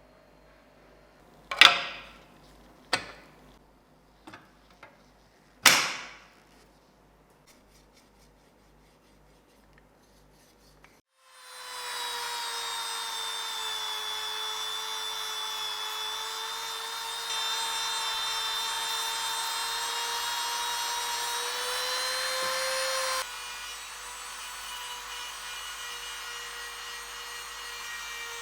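A few sharp knocks, each with a short ringing tail. After a pause, a small high-speed power tool starts up and runs with a steady whine; it grows louder for a few seconds, then drops back to a lower level near the end.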